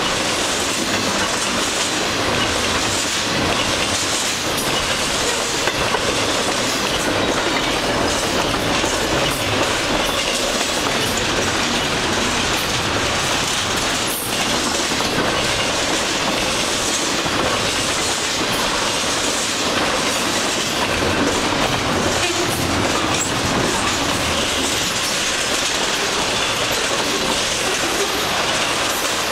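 Double-stack intermodal freight train's well cars rolling past at speed: a steady, loud noise of steel wheels on rail with a regular beat of wheelsets.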